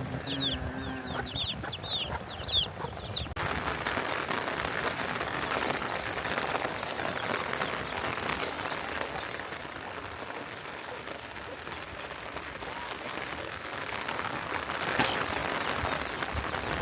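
Chickens clucking and quick high bird chirps. About three seconds in, these cut off abruptly and give way to the steady hiss of heavy rain, with a few more chirps over it.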